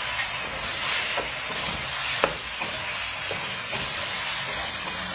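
Chicken pieces sizzling in hot oil in a non-stick pan while a wooden spatula stirs and turns them, its scrapes and light knocks against the pan coming irregularly over the sizzle; one sharper knock about two seconds in.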